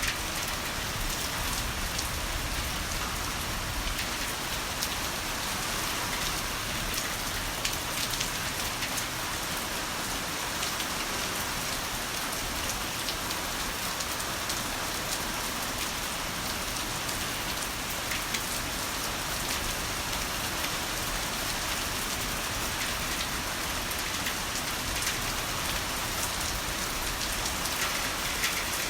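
Heavy rain falling steadily: a dense, even hiss with many small sharp drop hits on surfaces.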